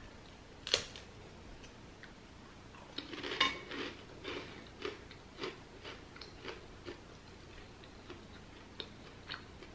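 A person eating crunchy food by hand, tempeh crackers and fresh green beans. There is a sharp crunch under a second in and a cluster of crunches around three seconds, then faint chewing crunches about twice a second.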